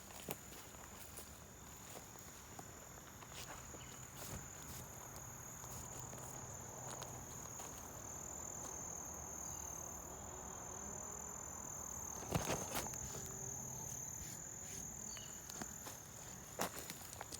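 Steady high-pitched insect trill with scattered clicks and knocks, the loudest about twelve seconds in and again near the end.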